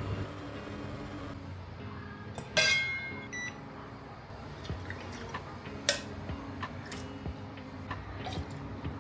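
Household handling sounds: a loud ringing clink about two and a half seconds in, a smaller clink just after, and a few light clicks and taps later, over a steady low hum.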